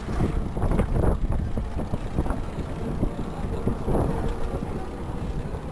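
Wind buffeting the microphone of a rider on a moving Citi Bike e-bike: a steady low rumble with scattered knocks and rattles.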